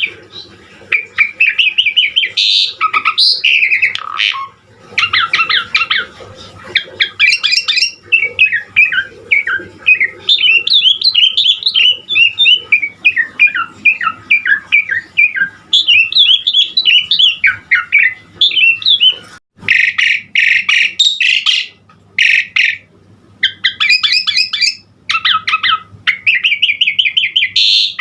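Asian pied starling (jalak suren) singing a long, varied song of rapid chattering runs and gliding whistled notes, turning to harsh squawking phrases in the last third.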